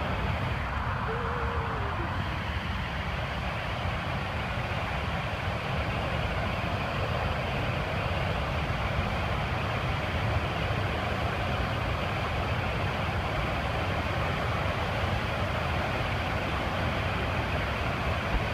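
Waterfall in full flood, raging: a steady, unbroken rush of heavy water with a deep rumble underneath.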